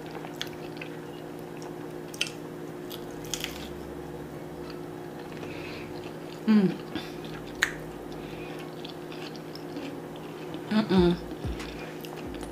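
A person chewing mouthfuls of fried green plantain cups (tostones) filled with ackee and saltfish close to the microphone: wet chewing with a few sharp crunches, over a steady low hum. Twice, about six and eleven seconds in, a short hummed "mm" with falling pitch is the loudest sound.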